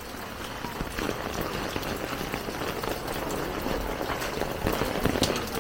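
Heavy rain falling: a dense, steady hiss of water with many small drop impacts on nearby surfaces.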